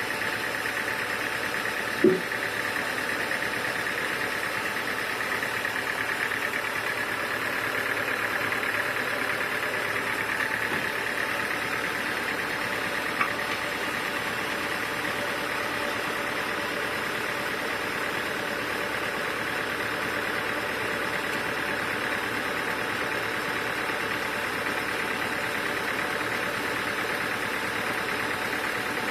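Sawmill machinery running with a steady mechanical hum. There is one sharp knock about two seconds in and a light click later on.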